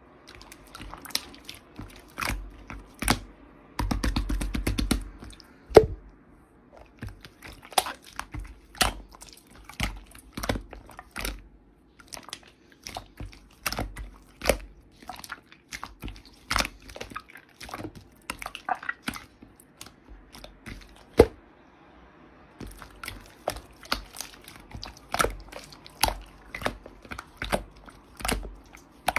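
Hands handling and tapping small objects: irregular sharp clicks and crunches, with a quick rattling run about four seconds in.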